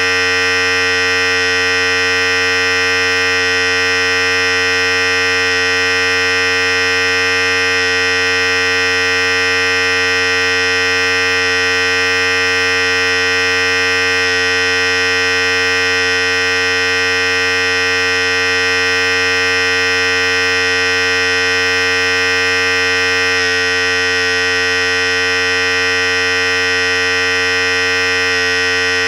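Philips Series 5000 electric hair clipper running steadily: a constant, loud buzz that keeps one pitch throughout.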